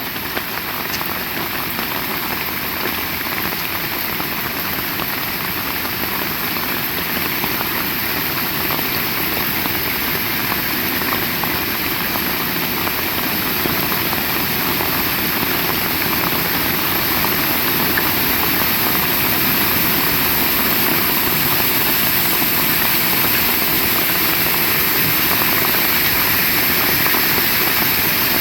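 Heavy rain falling in a steady, dense hiss that slowly grows louder.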